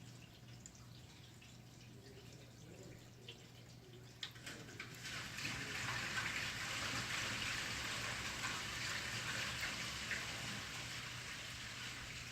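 Toilet flush heard at the plumbing: a few faint drips and a click, then water rushing through the pipe, starting suddenly about five seconds in and easing slightly toward the end.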